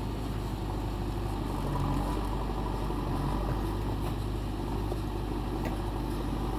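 Heavy-vehicle engine running steadily with a low, even hum and no change in speed.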